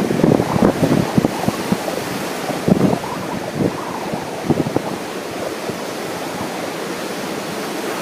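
Wind buffeting the microphone in irregular low gusts over the steady wash of ocean surf, the gusts busier in the first few seconds and easing after.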